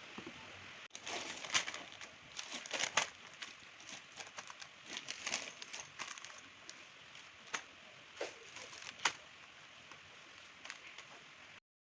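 Irregular clicks and crinkling over a steady hiss, stopping abruptly near the end.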